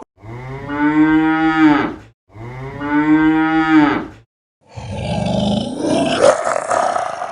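Cow mooing: two long, identical moos of about two seconds each, then a rougher, noisier call of about three seconds.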